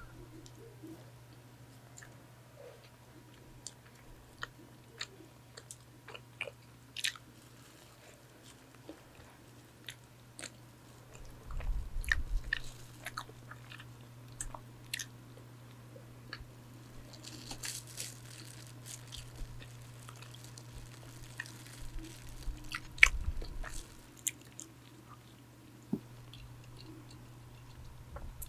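Close-miked biting and chewing of a donut: soft, irregular mouth clicks scattered through, with busier spells of chewing about twelve, eighteen and twenty-three seconds in. A nearby electric fan hums steadily underneath.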